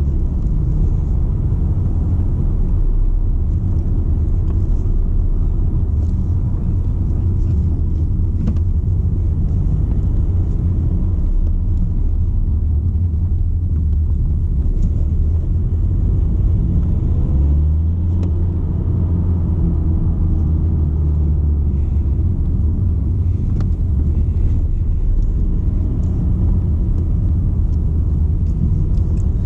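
BMW 120d hatchback's four-cylinder diesel engine and road noise while driving: a loud, steady low rumble.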